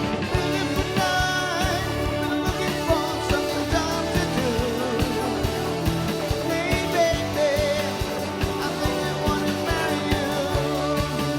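Live band playing a pop-rock song, with a steady drum beat, bass and guitar under a sung melody.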